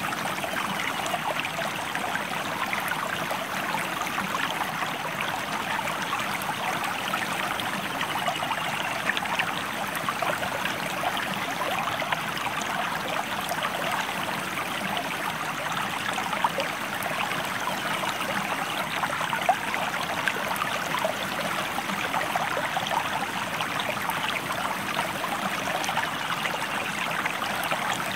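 River water flowing steadily: an even, constant rush of water full of small splashes.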